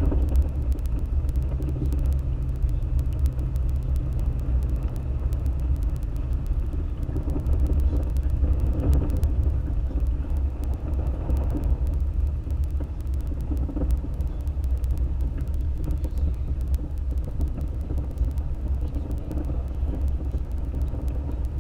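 Toyota FJ Cruiser driving along: a steady low rumble of engine and tyres on the road.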